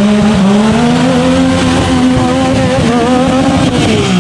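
Side-by-side UTV engine held at high revs, its pitch wavering slightly, then dropping as the throttle comes off near the end.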